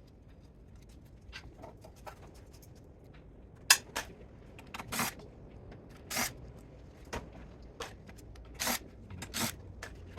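Hand tools and metal parts being handled while dismantling a welding power supply for scrap: a string of short, separate clicks, clanks and scrapes at irregular intervals, with one sharp click about four seconds in.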